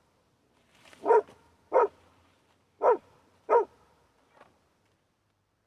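A dog barking: two pairs of short barks falling in pitch, then one faint bark.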